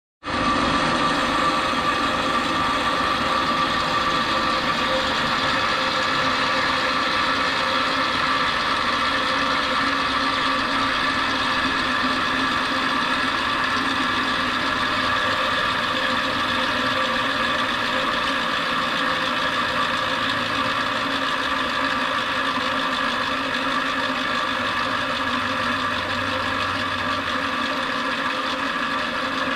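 Rotary phase converter's idler motor running at full speed with a steady electric hum and whir. This is its normal running sound, with no clicking.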